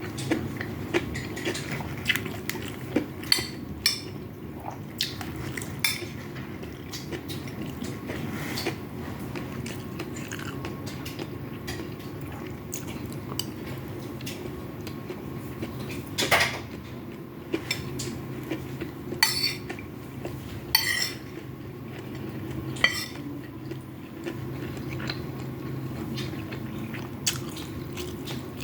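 A spoon clinking and scraping against a small bowl while fried rice is eaten: scattered sharp clicks, a few louder than the rest, over a steady low hum.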